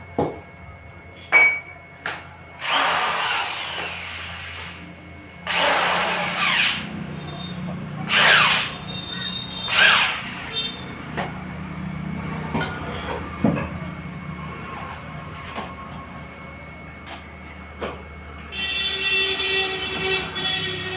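Tool work on a loudspeaker: four loud rasping strokes, each a second or two long, with sharp knocks in between, over a steady low hum. A steadier whine comes in near the end.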